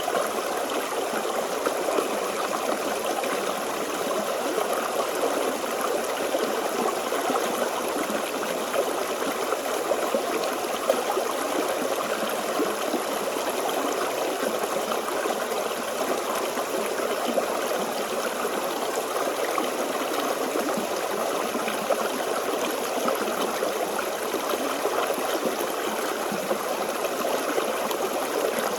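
Forest stream flowing over rocks, a steady babbling and trickling of water with no pauses.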